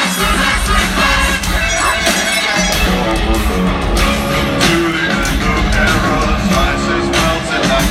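Live rock band playing loud through a concert PA, with drums, bass, electric guitar and a singing voice, heard from the crowd.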